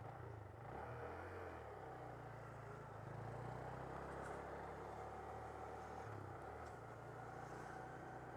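Honda Grom's 125 cc single-cylinder engine running faintly while riding, its low hum shifting in pitch a couple of times.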